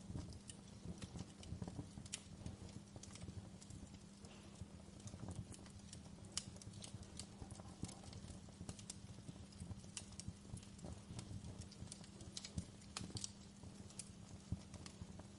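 Campfire burning with irregular, sharp crackles and pops of wood, over a steady low hum.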